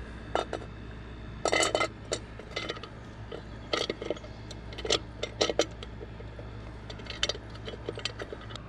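Irregular metallic clinks and clicks as a wheel center cap is handled and fitted onto a truck wheel, with a short burst of rattling about a second and a half in.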